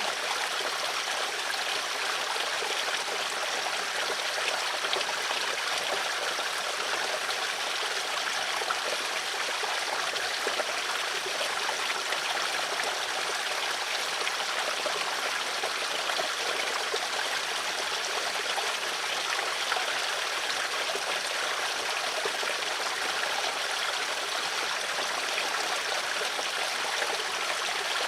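Stream of water flowing steadily over rocks, a continuous babbling and trickling with no change in level.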